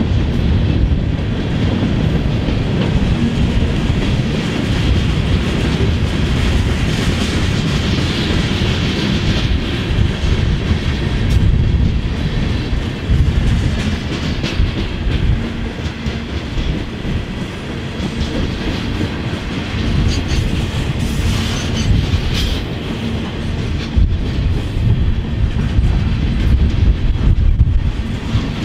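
Freight cars of a long CSX train rolling past at track side: a steady noise of steel wheels on rail, broken by an occasional sharp clack.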